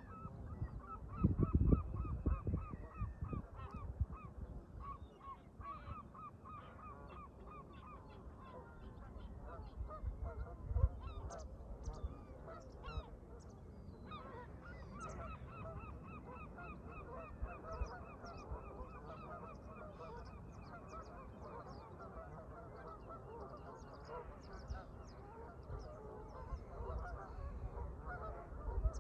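A flock of Canada geese honking over and over, many calls overlapping without a break. Low wind rumble on the microphone is loudest a second or two in, and thin chirps of smaller birds come in from the middle on.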